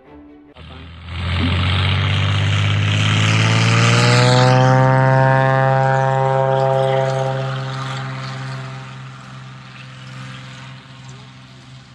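Propeller airplane making a low pass: the engine and propeller drone starts abruptly, swells to its loudest, drops in pitch as it goes by, then fades away.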